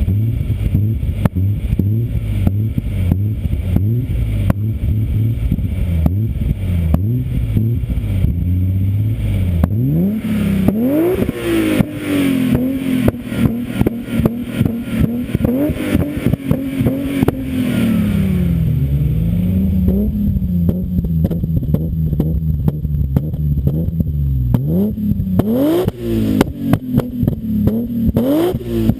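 BMW M5 E34's S38B38 straight-six engine through a Scorpion exhaust, running at a low steady note and then revving up sharply about a third of the way in. It holds there, eases back down in steps, and rises quickly twice more near the end.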